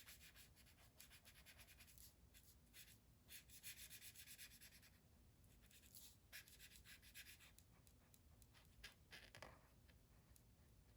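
Faint scratching of a felt-tip marker rubbed back and forth on paper in quick, short strokes, colouring in an area, with a few brief pauses.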